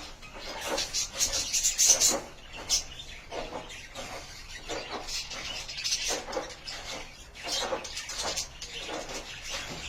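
Budgerigars chattering and warbling, a dense run of short chirps close together, loudest in a burst about a second or two in.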